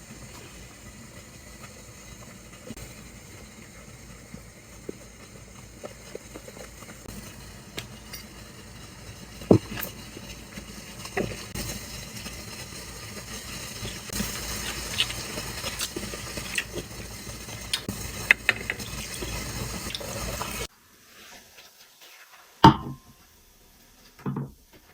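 Steady running or pouring water with scattered light clinks and knocks. It cuts off abruptly about 21 s in, leaving a few soft knocks near the end.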